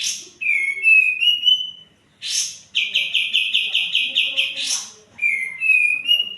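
Kapas tembak bulbul singing: short phrases of rising whistled notes, a fast even run of about a dozen notes in the middle, and three short harsh rasping notes between phrases. It is a lure song meant to set a caged bird singing.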